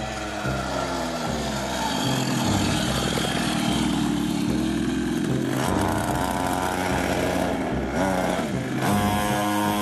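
Small two-stroke pocket bike engine with a 49cc Polini GP3 big-bore cylinder, revving up and down so that its pitch rises and falls.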